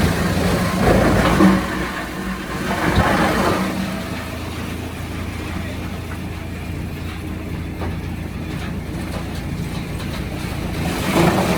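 Sawmill machinery running with a steady low hum, growing louder and noisier in the first few seconds and again near the end.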